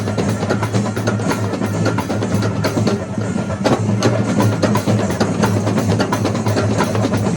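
Kerala temple-festival drum ensemble playing a fast, dense, continuous run of strokes.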